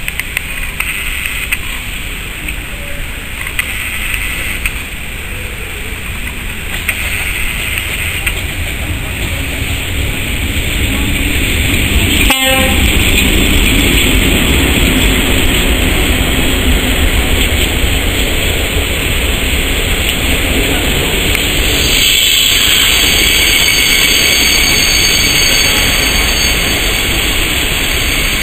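Passenger train running on the rails: a steady rumble and rail noise that grows louder about ten seconds in, with one sharp click near the middle.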